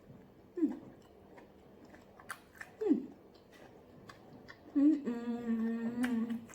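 A person eating pounded yam with ogbono soup close to the microphone: wet chewing with lip smacks, and two short 'mm' sounds that drop in pitch. About five seconds in comes a long held 'mmm' hum of enjoyment.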